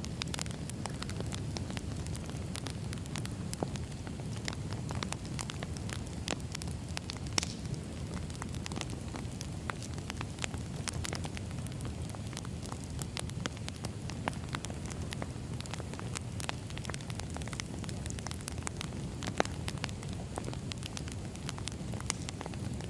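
Firewood burning: a steady low rumble of flames with frequent irregular crackles and occasional louder pops from the burning logs.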